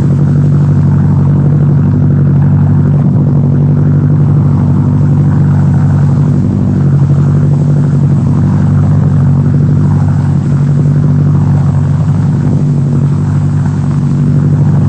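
A steady, loud engine drone with a constant low pitch and no change in speed throughout.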